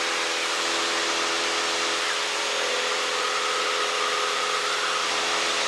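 Steady drone of a Cessna 172 Skyhawk's piston engine and propeller heard inside the cabin during the climb after takeoff, an even hum under a broad hiss.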